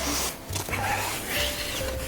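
Strong wind buffeting the microphone in uneven low rumbling gusts, with faint background music holding a few steady notes.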